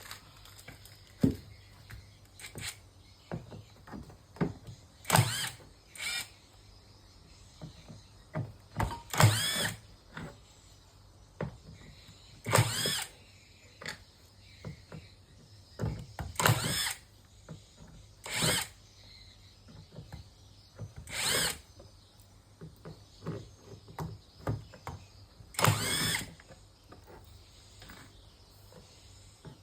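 Electric drill-driver run in about eight short bursts, each a brief whir that speeds up and winds down, with quieter handling clicks between them.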